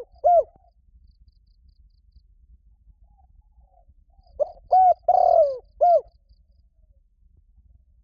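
Spotted dove cooing: the last coo of one phrase right at the start, then about four seconds later a full phrase of about five coos, the longer middle coo falling in pitch. Faint high chirps sound in the background.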